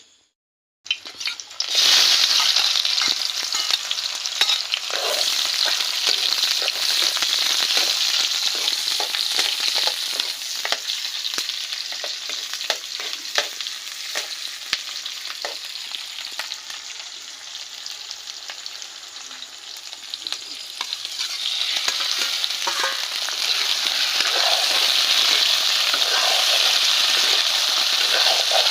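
Pieces of swamp eel frying in hot oil in a pan: a dense sizzle that starts about a second in, with frequent clicks and scrapes of stirring. The sizzle eases off in the middle and grows louder again in the last third.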